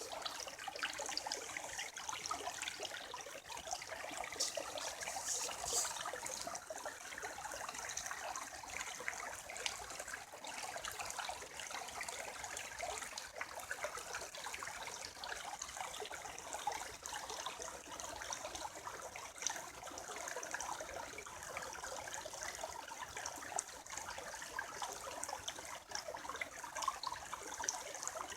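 Creek water trickling and babbling over rocks, a steady splashy flow with small bright splashes throughout.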